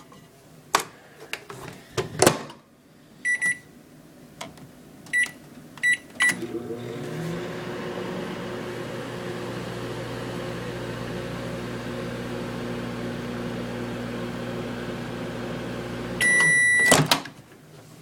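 Microwave oven being set and run: a few clicks and knocks, five short keypad beeps, then the oven running with a steady hum for about ten seconds. The hum stops with one longer beep, followed by a clunk.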